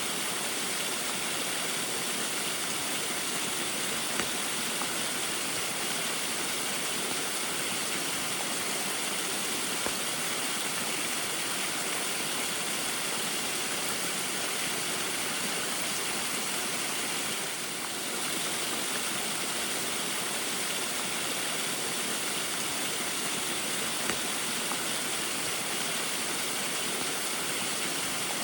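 Small waterfall in the rain: a steady, even rush of falling and splashing water, with a few faint ticks.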